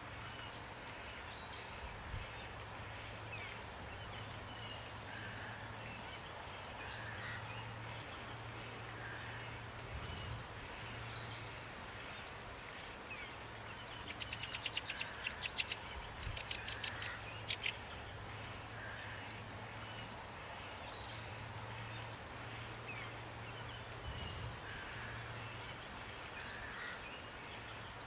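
Several songbirds chirping and whistling over a steady hiss of rain, with a fast, rattling trill of song partway through as the loudest part.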